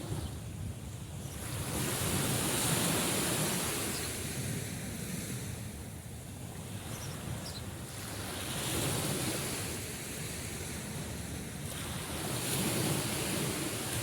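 Sea waves breaking and washing on the shore, the surf rising and falling in three swells a few seconds apart.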